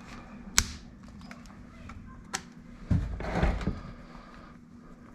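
Hand tool working the drain plug out of an outboard's lower unit: two sharp metallic clicks, then a short burst of scraping and handling around three seconds in.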